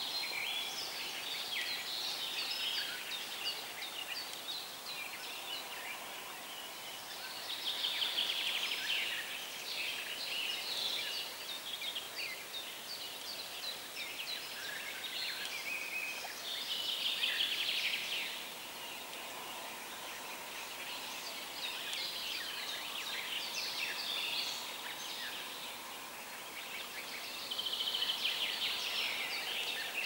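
Songbirds singing on a river bank: quick, chirping song phrases of a second or two each, repeated every few seconds, the loudest about eight seconds in, again around seventeen seconds and near the end. Behind them is a faint steady hiss.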